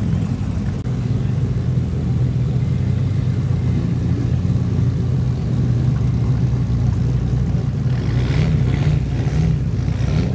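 Car engine running at low revs, a steady low rumble.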